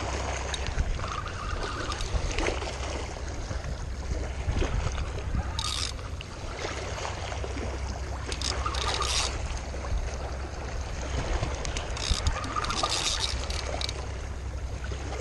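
Steady rumble of wind and river water at the bank, with short hissy bursts about six, eight to nine, and twelve to thirteen seconds in.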